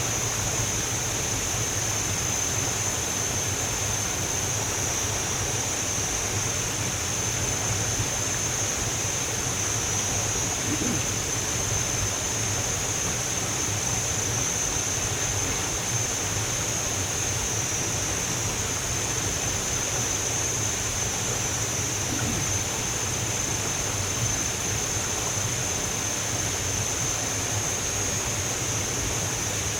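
Waterfall water rushing steadily over rocks, with a steady high-pitched whine running through it.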